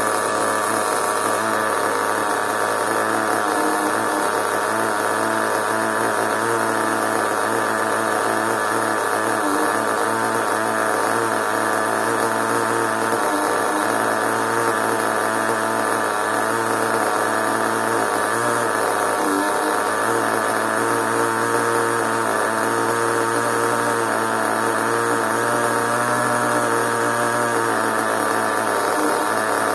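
Small nitro engine of a CEN RC monster truck running steadily at a constant speed, with a slight waver in its pitch.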